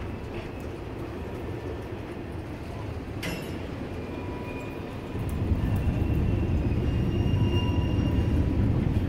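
Freight train's boxcars and covered hopper cars rolling past on the rails: a steady low rumble that gets louder about five seconds in. There is a single sharp click about three seconds in, and faint thin squeals sound from the wheels.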